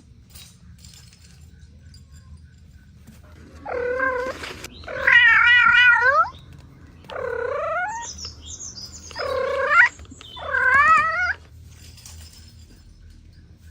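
A cat meowing: five long, drawn-out meows with a wavering pitch, the second and fifth the loudest, spread over about seven seconds in the middle.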